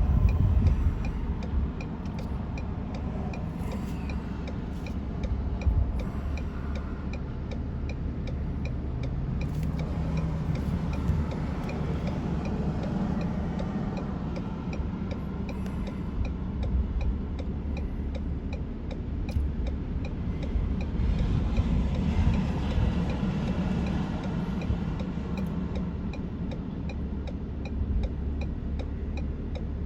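Vehicle engine rumbling steadily while stopped in traffic, heard from inside the vehicle, with a light, even ticking throughout.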